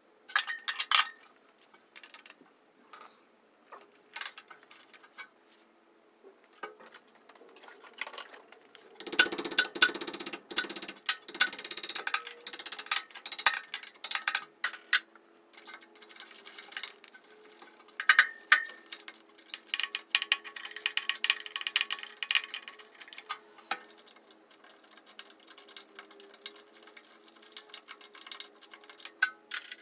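Hand tools working on a car's metal parts: irregular clicking, clinking and knocking. A dense run of rapid clicking comes about nine seconds in and lasts around three seconds.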